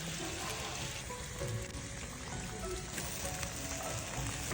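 Soft background music over a steady hiss of a wok of braised duck cooking.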